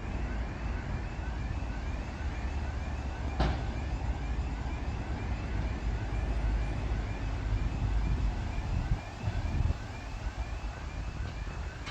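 TGK2 shunting locomotive's V12 diesel engine running with a heavy low rumble, over which a short rising whine repeats a little over twice a second. A single sharp click comes about three and a half seconds in.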